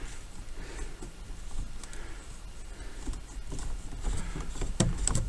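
Faint rustling and handling noise with a few light clicks near the end, from hands and tools working at a truck's steering column to remove the multifunction switch.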